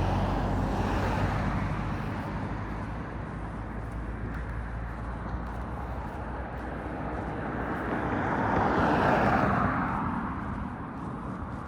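Street traffic: a car that has just passed fades away, then another car approaches and passes with a swell of tyre and engine noise that peaks about nine seconds in and dies down.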